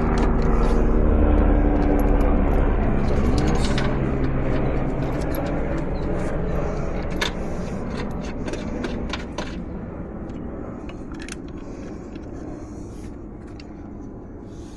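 A motor vehicle's engine hum that slowly fades away, with scattered light metallic clicks and clinks of tools and parts.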